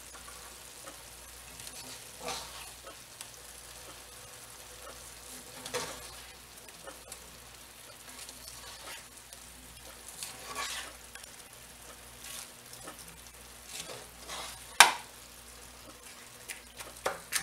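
Steak and onions frying in a skillet, sizzling steadily while being stirred. A utensil scrapes and knocks against the pan several times, loudest about fifteen seconds in.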